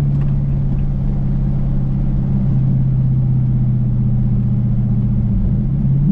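Dodge Challenger's engine and exhaust running at a steady cruise. The pitch sags slightly, then climbs again near the end as the revs pick up.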